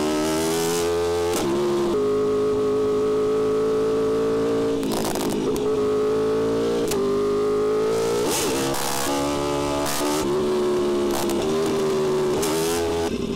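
Yamaha R1M's crossplane inline-four engine running hard under way, holding a steady high pitch. The note is broken about six times by brief dips where the throttle closes or a gear changes.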